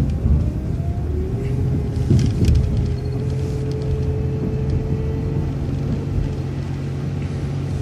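City transit bus driving, its engine and drivetrain running steadily, with a whine that rises about a second in and then holds level.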